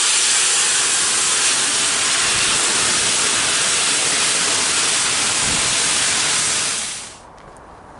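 Steam locomotive letting off steam: a loud, steady hiss that dies away about seven seconds in.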